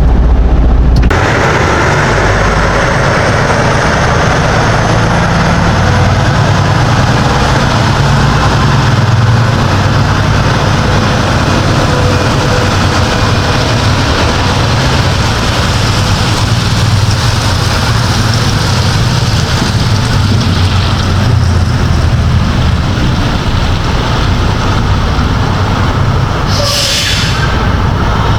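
A semi truck's diesel engine runs with a steady low rumble under a constant hiss. A brief, sharper hiss comes near the end.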